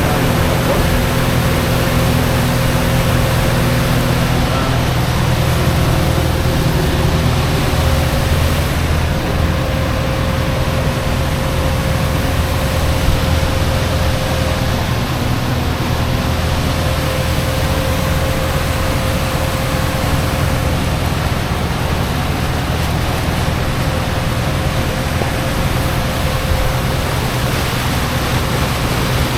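New Mercury outboard motor running steadily under way during its break-in, a low even hum with a thin steady whine above it, mixed with rushing wind and water noise.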